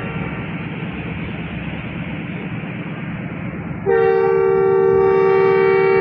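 Steady low rumble of a train standing at the platform, then about four seconds in the locomotive's horn sounds a long, steady chord. It is the second of the two horn signals given before the train departs.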